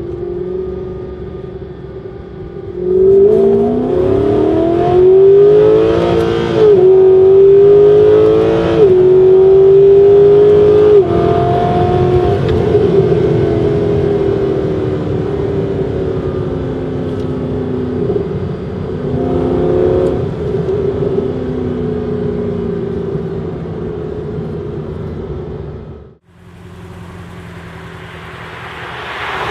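Mercedes SLS AMG's 6.2-litre V8 with a Supersprint full exhaust (headers, metallic sports cats, X-pipe), heard from inside the cabin. About three seconds in it accelerates hard, the pitch climbing and dropping sharply at three quick upshifts, then it eases into steady cruising. Near the end the sound cuts to a much quieter, steady engine note.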